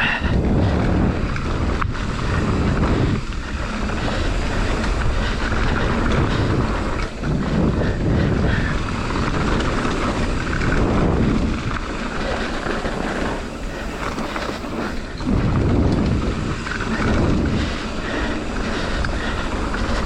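Wind rushing over the microphone of a mountain bike descending a trail, with tyre noise and rattling from the bike, swelling and easing every few seconds.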